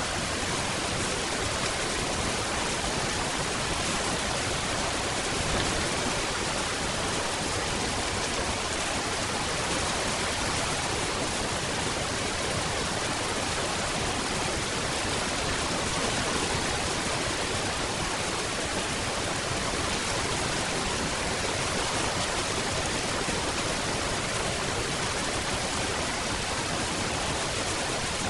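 Steady rain: an even, unbroken hiss of rainfall with no single drops, thunder or other events standing out.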